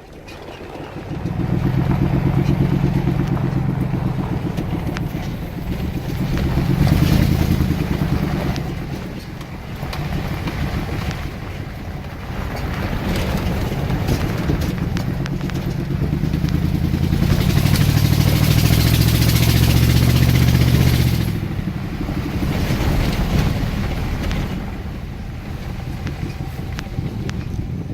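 Mud truck engine running as it is driven, revving up and easing off several times, loudest about seven seconds in and again from about seventeen to twenty-one seconds, then dropping back.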